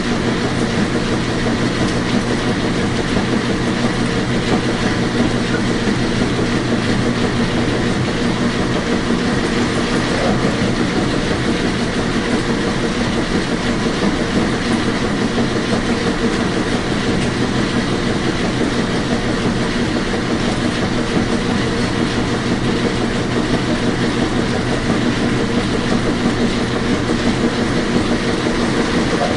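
Washing machine running steadily: a constant rumbling whir with a low motor hum underneath.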